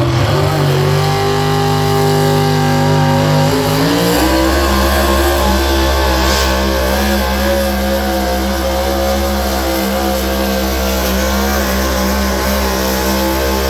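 Pickup truck engine at high revs under load, pulling a weighted sled. Its pitch climbs in two steps in the first four seconds, then holds steady at full throttle.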